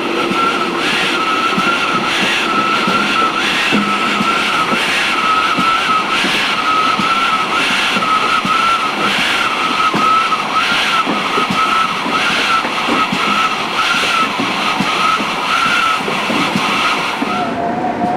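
Train wheels squealing as the coaches run round a curve: a continuous high-pitched squeal that wavers with a regular beat about once a second, over the running noise of the train. The squeal stops near the end.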